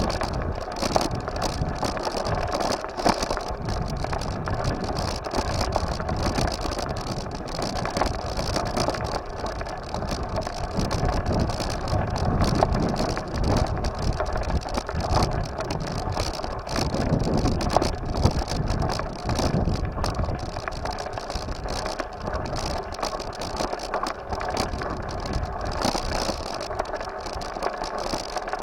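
Continuous rumble of wind and ground noise from a moving bike, with frequent small knocks and rattles.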